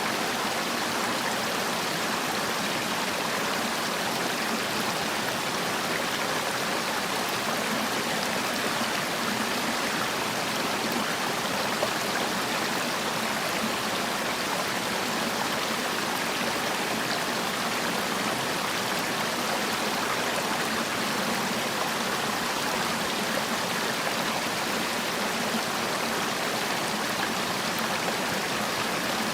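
Mountain stream water rushing and splashing over rocks, a steady even sound with no change.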